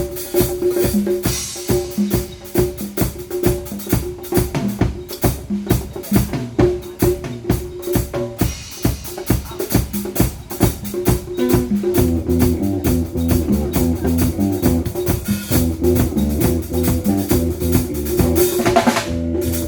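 Live band music with a steady drum-kit beat and a repeating pitched riff; low bass notes come in strongly about twelve seconds in.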